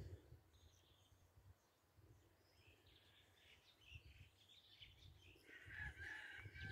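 Near silence with faint bird chirps, which grow busier near the end, over a low rumble.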